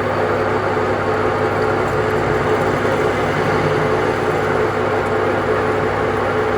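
A machine running steadily, with a constant hum over an even whirring noise.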